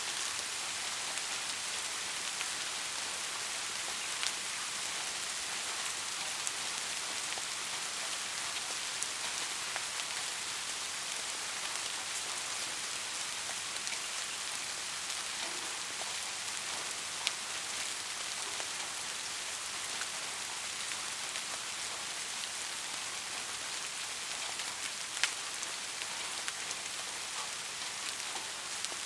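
Heavy rain falling steadily, an even hiss, with now and then a single sharper drop hit standing out.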